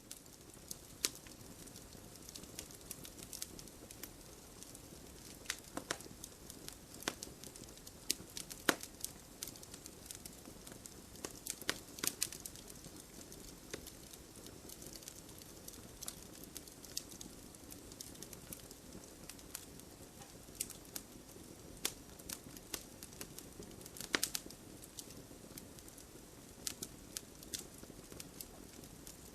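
Campfire of burning logs crackling: a steady low hiss with frequent sharp irregular pops and snaps, a few louder ones scattered through.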